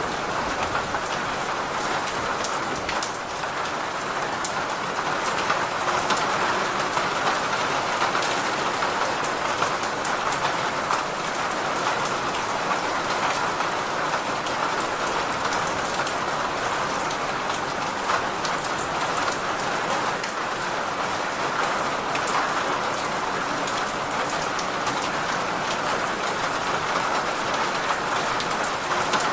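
Steady, heavy rain falling, even and unbroken, with individual drops ticking sharply through it.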